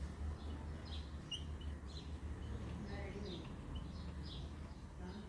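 Small birds chirping, many short high chirps that slide in pitch, repeated irregularly over a low steady hum.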